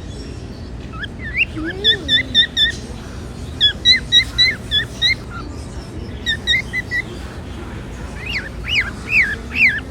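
Cockatiels chirping in quick bursts of short, repeated calls, with a run of sharp rising-and-falling whistles near the end.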